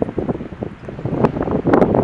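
Wind buffeting the camera's microphone in irregular gusts.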